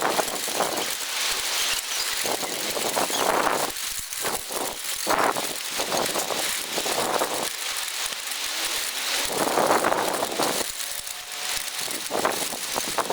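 Storm wind gusting with rain falling, the noise surging and easing every second or two.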